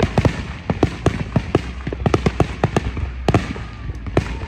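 Fireworks going off: a rapid run of bangs and crackling reports, several a second.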